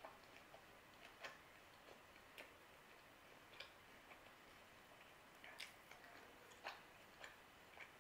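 Near silence with faint, irregular soft clicks of quiet chewing on a Neapolitan calzone, roughly one a second.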